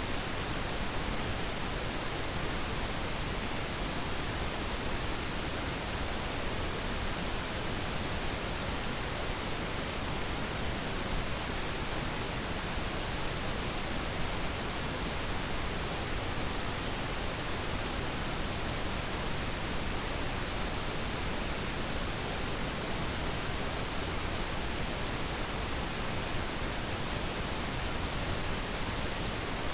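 Steady pink noise: an even, unchanging hiss spread across the whole range, used as a focus sound.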